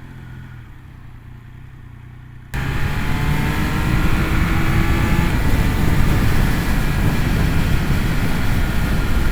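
Triumph Speed Triple 1200 RS's three-cylinder engine heard while riding: a low, quiet hum at first, then about two and a half seconds in it gets suddenly louder, with wind rush and the engine note rising as the bike accelerates.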